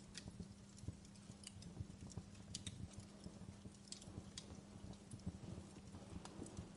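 Campfire crackling: a bed of soft, irregular low knocks with sharp pops scattered through it, about eight of them.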